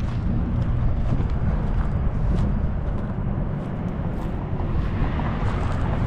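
Vehicle noise: a steady low rumble with no separate knocks or pass-bys.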